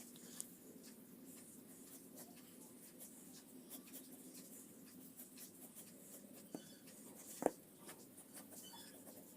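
Pencil drawing on paper: faint scratching strokes, with a sharper tick about seven and a half seconds in.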